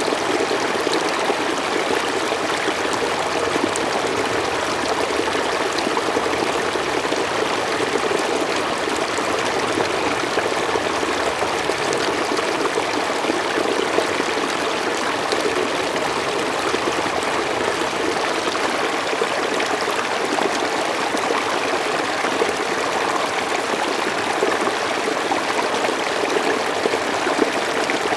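Mountain stream flowing over rocks: a steady rush of water with small splashes and trickles running through it.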